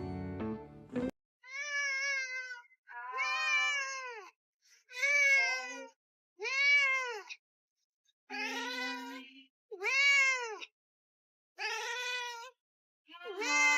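A cat meowing over and over: about eight long meows, each rising then falling in pitch, with short silent gaps between them. A bit of music ends just before the first meow.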